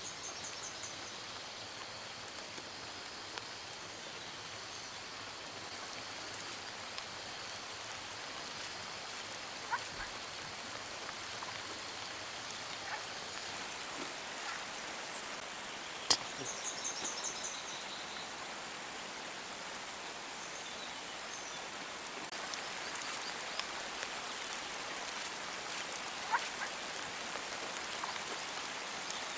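Steady rain falling on foliage, with a few sharp drip-like clicks. Two brief runs of quick, high chirps come just after the start and again about sixteen seconds in, the second right after the loudest click.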